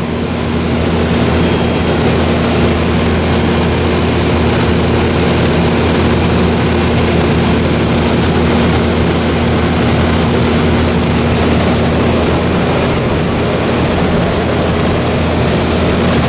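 1986 Carrier 3-ton (36,000 BTU) wall-unit heat pump running in cooling mode just after start-up: a steady hum of several tones under an even rush of moving air. The compressor has already built head pressure.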